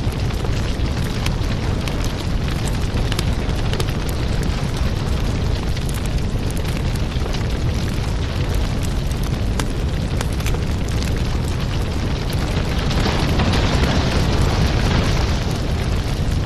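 Burning firewood crackling and popping over the steady low rumble of the flames, with a louder rushing hiss swelling for a few seconds about three-quarters of the way through.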